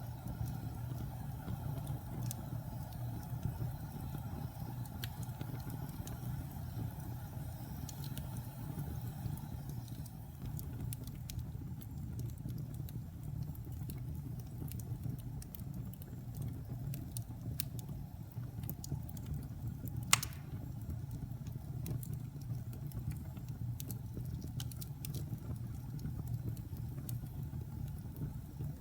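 Wood fire burning in a fireplace: a steady low roar with scattered small crackles and one loud sharp pop about twenty seconds in.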